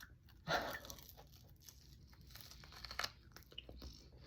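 Crinkling and tearing as something crisp is handled and bent by hand, with a louder rustle about half a second in and a sharp click near three seconds.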